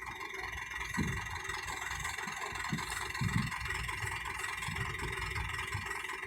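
An engine running steadily, with a few low thuds about a second in and again around three seconds in.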